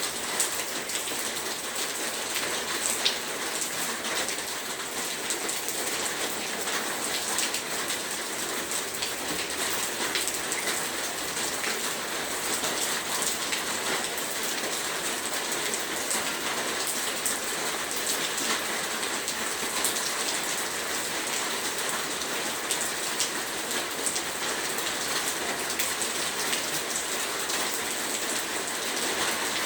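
Heavy rain falling steadily, a dense hiss with many small drop ticks.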